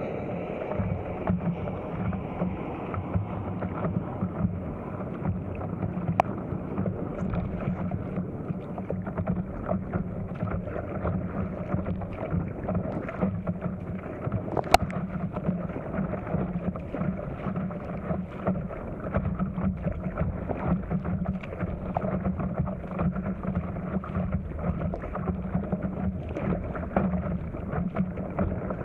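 Wind buffeting the camera's microphone over continuous water splashing and lapping around an inflatable stand-up paddleboard being paddled through windy chop, with one sharp knock about halfway through.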